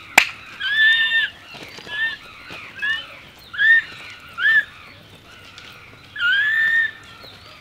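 A single sharp click just after the start, then a bird calling repeatedly outdoors: short arched calls, with two longer held calls about a second in and near the end.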